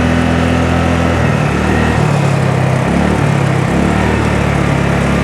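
Honda Navi's small single-cylinder four-stroke engine running, its pitch dropping and rising several times with the throttle.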